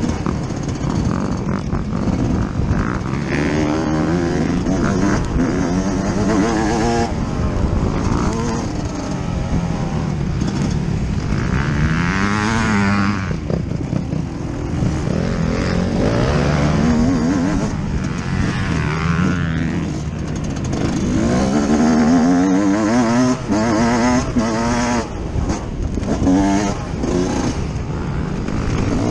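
Yamaha YZ125 two-stroke motocross engine ridden hard, heard from on board. It repeatedly revs up, climbing in pitch, then drops back between gear changes and throttle-offs.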